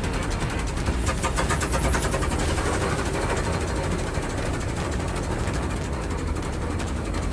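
Vintage tractor engine running with a steady, even firing beat of repeated exhaust cracks over a low rumble.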